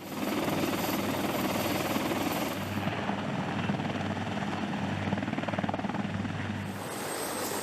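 Helicopter running, its rotor blades chopping rapidly over a steady turbine engine noise.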